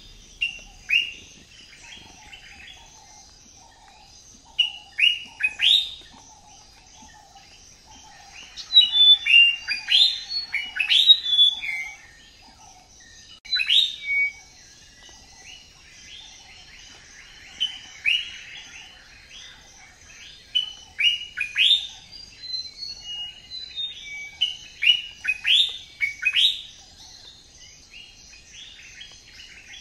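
Birds chirping: repeated clusters of short, quick, downward-sweeping chirps every few seconds over a steady high hiss.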